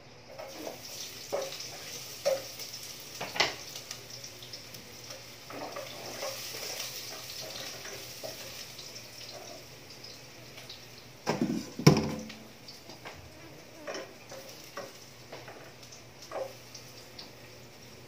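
Garlic and onion sizzling as they sauté in hot oil in a pot. A spatula clinks and scrapes against the pot as they are stirred, with a cluster of louder knocks about two-thirds of the way through.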